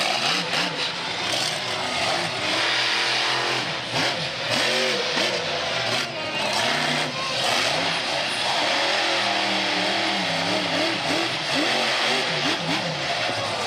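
Monster truck engine revving hard, its pitch rising and falling again and again over a loud, noisy roar.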